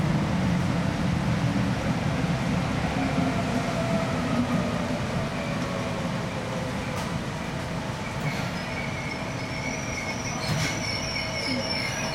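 Seibu 2000 series electric train pulling away from a station: a steady running noise of the motors and of wheels on rail, with faint tones that shift in pitch early on. From about eight seconds in a high-pitched wheel squeal joins, with a couple of sharp clicks near the end.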